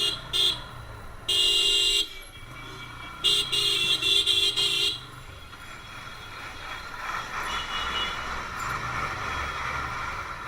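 A vehicle horn honking in traffic: two short toots, a longer blast, then a run of quick toots. After that comes the steady road and engine noise of riding a motorcycle through traffic.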